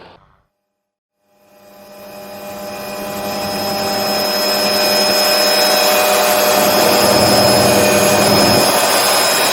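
After about a second of silence, an MD500D helicopter fades in and settles to a steady run. Its turbine whine of several steady tones sits over the rotor noise.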